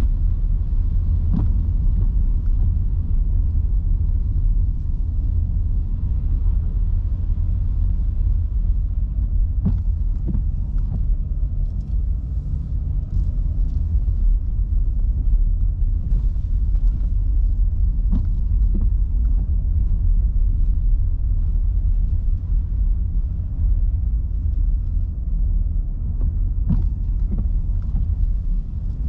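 Steady low rumble of a car driving on wet streets in heavy rain: tyre and road noise, with scattered light ticks.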